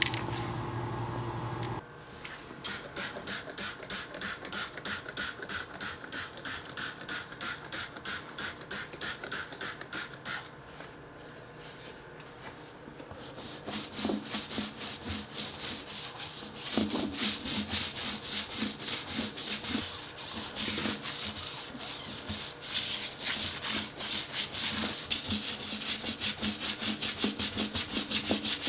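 Rapid back-and-forth scrubbing strokes as a wheel and tire are cleaned by hand, fainter at first and louder and quicker about halfway through. A steady hum cuts off about two seconds in.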